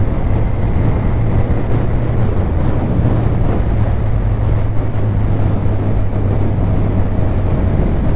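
Kawasaki Ninja 1000 inline-four engine running at a steady cruise, with wind rushing over the microphone.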